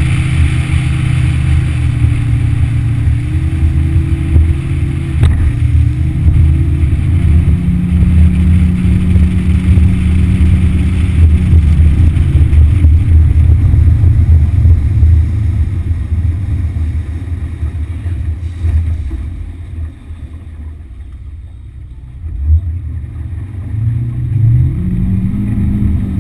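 Yamaha F60 four-stroke outboard motor running a small boat under way, its note shifting in steps with the throttle. About twenty seconds in it eases off and goes quieter, then picks up again near the end with a rising pitch.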